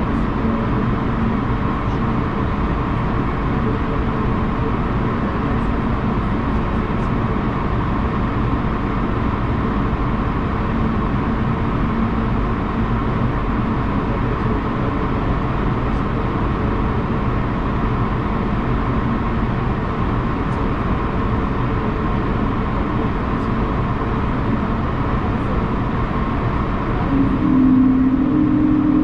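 Steady running noise of an Airbus A220-100 airliner, a broad rush with several steady low tones. About 27 seconds in, a strong low drone comes in and the sound grows louder.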